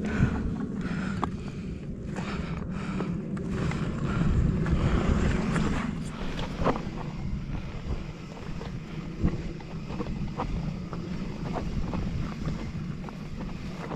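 Wind buffeting the microphone during a bicycle ride, over a steady low rumble, with scattered clicks and knocks from the bike.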